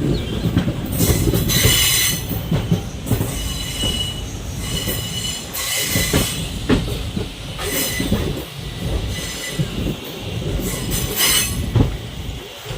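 A passenger train running on the rails, heard from on board. The wheels rumble steadily, and several high-pitched wheel squeals come and go.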